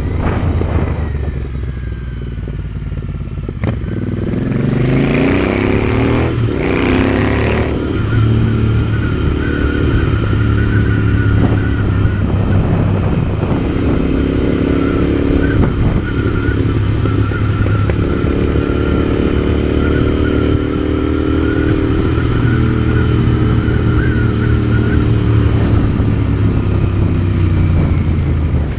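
Motorcycle engine heard while riding, over a steady rush of wind noise: it eases off in the first few seconds, picks up again with rising pitch about four seconds in, then runs at a fairly steady speed with slow rises and falls in pitch.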